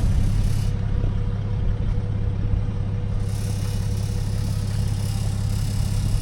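Nissan Patrol with a BMW M57 six-cylinder turbodiesel running, giving a steady low rumble with some rattle.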